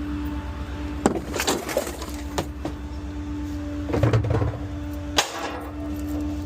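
Litter-bin trash being thrown into the hopper of a small rear-loader garbage truck: bottles and cans clatter and crash in several separate bursts, with a heavier thump midway and a sharp crack near the end. Under them the idling truck runs with a steady hum.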